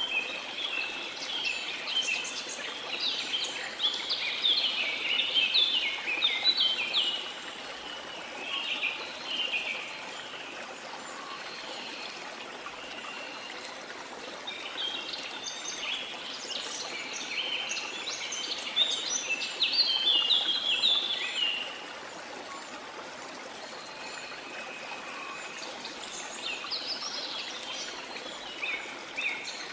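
Birds chirping and twittering in busy spells, about three of them, over a steady rush of falling water from a waterfall.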